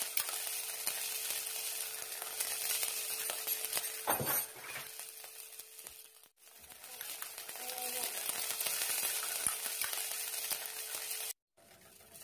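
Crushed garlic and grated ginger sizzling in hot oil in a stainless steel pan, stirred with a wooden spoon, with a louder scrape of the spoon about four seconds in. The sizzle drops out briefly about six seconds in, comes back, and cuts off suddenly near the end.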